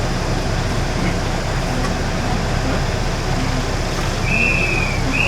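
KiHa 20 diesel railcar's engine running steadily, a low even hum heard from on board. A brief high tone sounds about four seconds in.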